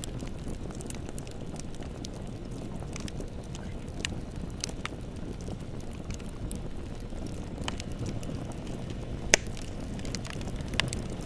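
Bonfire burning with a steady low rumble and scattered sharp crackles, one loud pop about nine seconds in.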